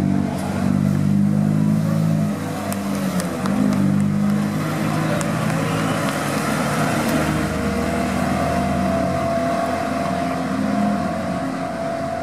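Touring race cars' engines running at racing speed, their pitch holding and then shifting every few seconds as the cars go by.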